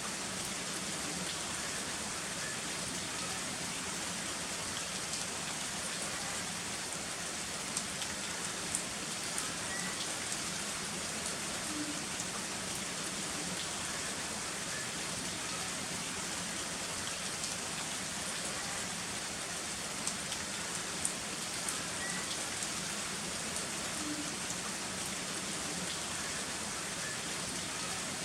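Heavy rain falling steadily, with a few sharper drop ticks now and then.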